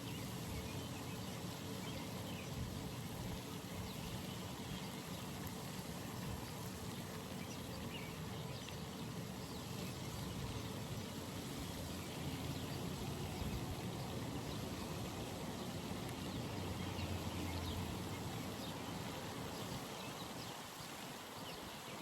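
Outdoor pond ambience: a steady, even hiss with many faint short chirps or ticks scattered through it, and a low rumble that swells briefly about three quarters of the way in.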